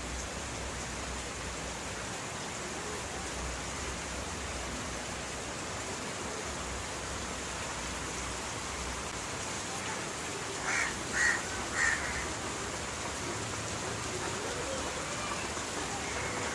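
Steady rain falling, an even hiss, with three short, sharp sounds close together about eleven seconds in.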